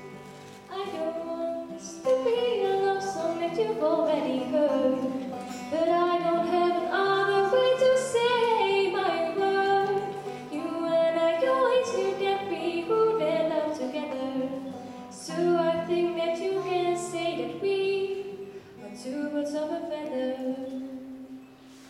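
A female vocalist singing an English-language ballad over steady instrumental accompaniment, the song fading toward its last notes near the end.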